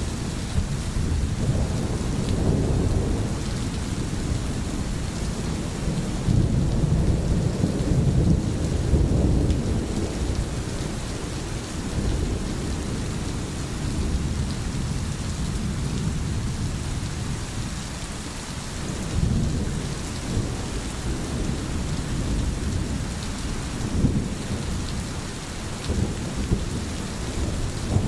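Steady rain hissing, with low rolling rumbles of distant thunder that swell and fade several times, the longest about a third of the way in.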